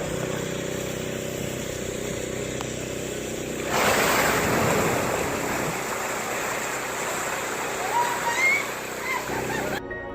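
A large splash and rush of water about four seconds in, from something surfacing beside a dock, over a steady motor hum. Near the end come a few short rising calls.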